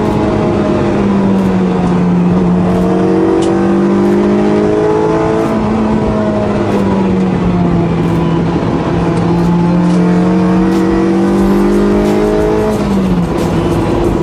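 Honda Integra Type R DC5's K20 2.0-litre four-cylinder VTEC engine pulling hard. Its pitch climbs and then drops back a few times, as with gear changes while accelerating.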